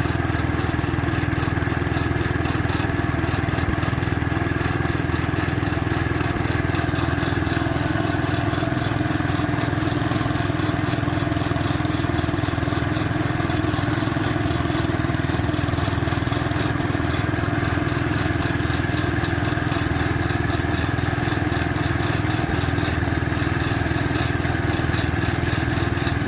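Garden tractor engine running steadily at an even, unchanging speed.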